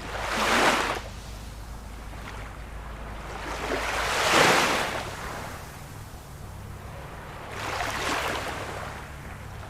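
Ocean waves breaking and washing up the shore: three surges of hissing surf a few seconds apart, the middle one loudest, over a steady low rumble of the sea.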